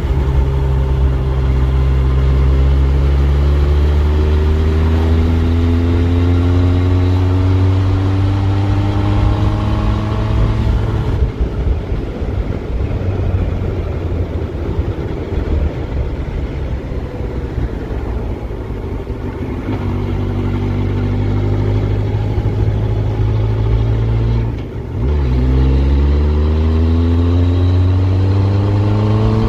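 Yamaha FZS1000 Fazer's inline-four engine pulling under acceleration, its note rising. For a stretch in the middle the engine note fades into wind and road rush. Near the end there is a short break in sound, like a gear change, before the note climbs again.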